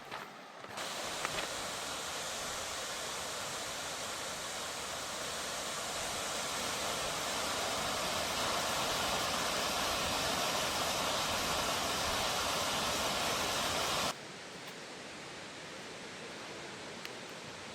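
Steady rushing roar of falling water from a waterfall, swelling a little over the first half. About 14 seconds in it cuts off abruptly to a quieter steady rush.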